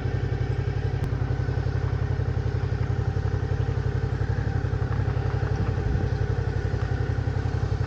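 Motorcycle engine running steadily with a rapid, even pulse, its pitch holding level.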